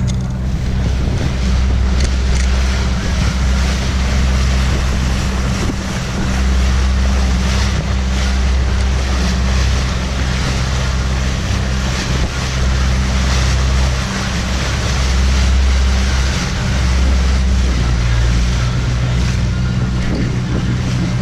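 Boat engine running steadily under way, a constant low hum, with water rushing past and wind buffeting the microphone.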